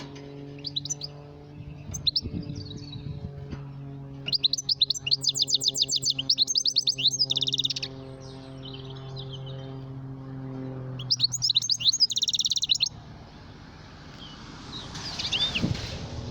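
Goldfinch singing in bursts of fast, high twittering trills and chirps, with the longest runs about four to eight seconds in and again around eleven to thirteen seconds. A steady low mechanical hum runs under it and drops away after about eleven seconds.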